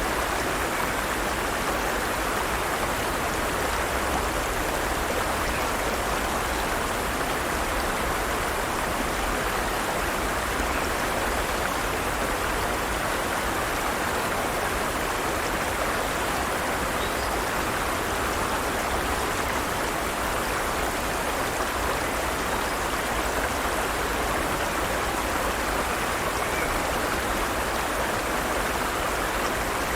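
Forest stream running over rocks, a steady rush of flowing water.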